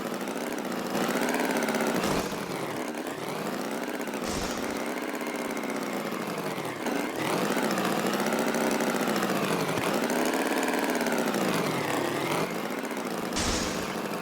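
Small tractor engine running, its pitch rising and falling over and over in slow arcs like repeated revving.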